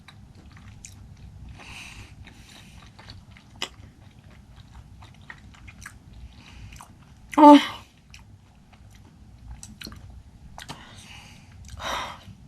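Close-up chewing of raw fish sashimi: small wet mouth clicks and smacks throughout, with one short, loud voiced sound from the eater about halfway through.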